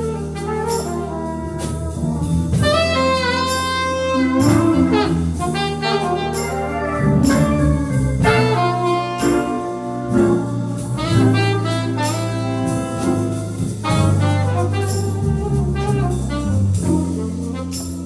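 Instrumental jazz with saxophone and brass playing a melody over a steady bass line.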